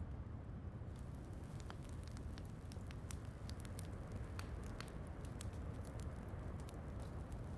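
Wood fire crackling in a fireplace, scattered sharp pops and snaps at irregular intervals over a steady low rumble, with steady rain.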